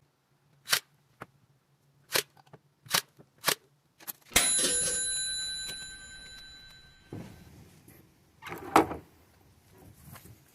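Typewriter sound: a handful of slow, sharp key clicks, then a single bell ding that rings out for about three seconds, then a heavy clunk near the end.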